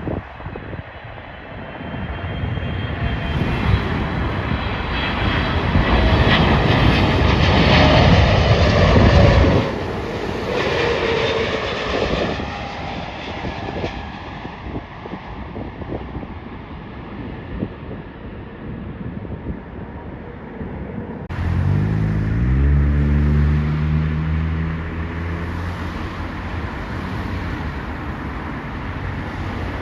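Jet airliner landing at Heathrow, its engine noise swelling to a peak as it passes and then fading, with whining tones that fall in pitch. About two-thirds of the way through the sound changes abruptly to a low hum that rises in pitch and then holds steady.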